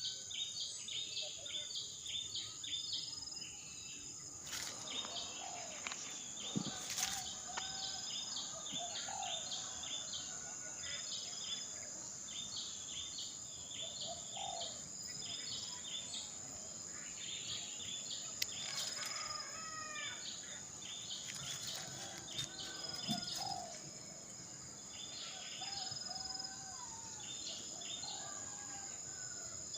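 Birds chirping: short high chirps repeating in quick series throughout, with softer, lower calls in between, over a steady high-pitched insect whine.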